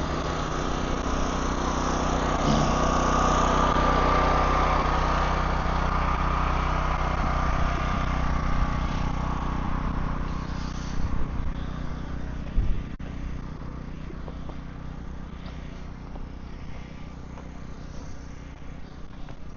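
An engine running steadily, with a louder rushing noise over it in the first half that fades away by about ten seconds in, and a few short knocks shortly after.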